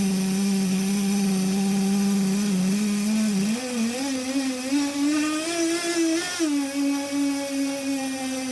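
SH 07 nitro engine from a BSD Racing Flying Tiger, a small two-stroke glow engine, running steadily on a test bench. From about halfway through it picks up revs, then drops back abruptly a few seconds later and settles at a slightly faster idle than before.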